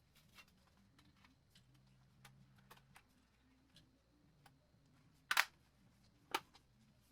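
Scattered light clicks and taps, with two much louder sharp clicks a little over five seconds in and about a second later.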